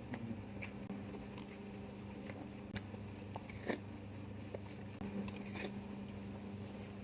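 Close-miked eating sounds: scattered wet clicks, small squishes and light crunches of chewing food, over a steady low hum.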